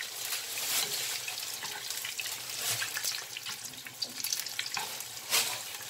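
Corn fritters sizzling and crackling in hot oil in a frying pan, with a few louder scrapes and knocks as a metal spoon turns them over.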